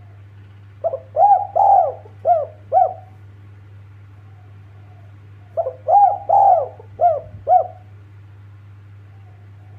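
Spotted dove (tekukur) cooing: two phrases of about five notes each, a few seconds apart, over a steady low hum.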